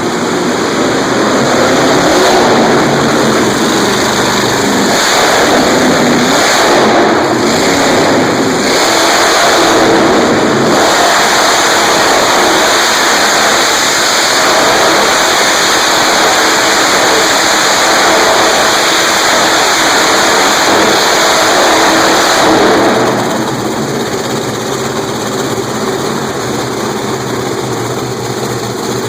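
Monster truck engine running loud and revving, then dropping back to a lower level about 23 seconds in.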